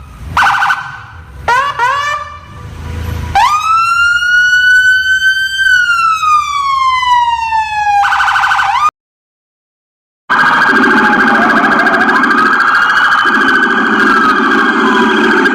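Police car siren: short buzzy horn blasts, a few quick rising whoops, then one long wail that rises and falls. After about a second and a half of silence, a steady, harsher siren tone comes in over a pulsing low drone.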